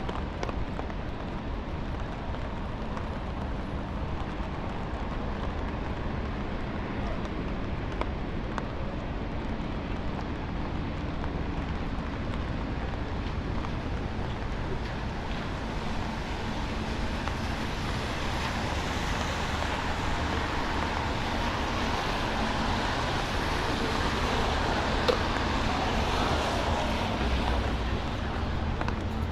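Downtown street traffic on a rainy day: a steady rumble of cars with a hiss of noise over it, swelling louder in the second half as vehicles pass.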